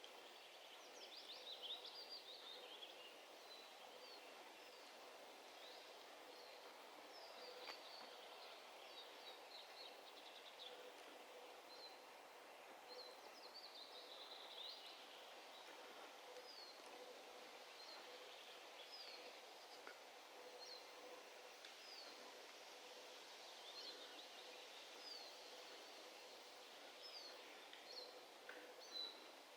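Faint summer-forest ambience with birdsong: one bird repeats a short, high, falling call about once a second, while other birds add brief flurries of song now and then.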